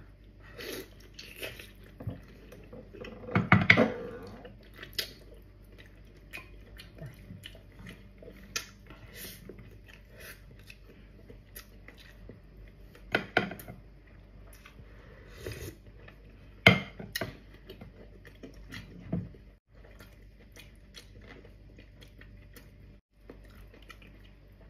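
Chewing and biting of stewed beef foot skin: wet mouth sounds and smacks at irregular intervals, loudest about three to four seconds in, with a few sharp clicks later.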